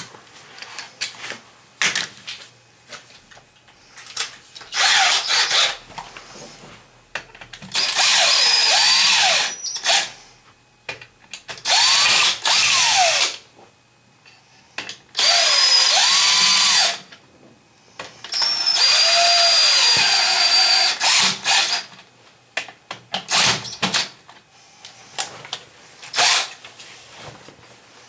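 Power drill running in about five short runs, each one to two and a half seconds long, its motor speeding up and slowing within each run, with small clicks and knocks in between.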